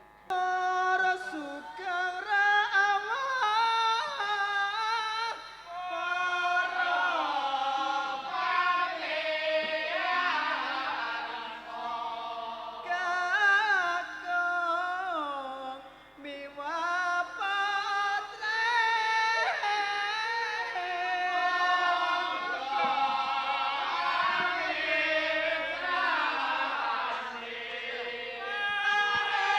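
Singing in a Javanese gending, voices carrying a slow, sliding melodic line, with short breaks about 6 and 16 seconds in.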